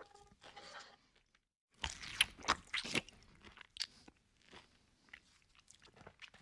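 Close-up chewing of a mouthful of food, with crisp crunches. The crunches are densest and loudest from about two to three seconds in, then give way to quieter, scattered chewing clicks.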